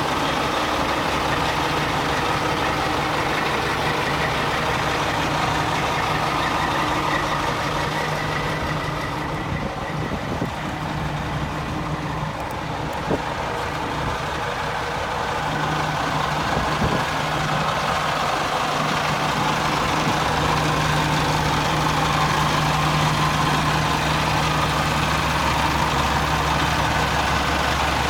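Caterpillar diesel engine of a 2000 Sterling dump truck idling steadily, dipping a little quieter for a few seconds midway before settling back.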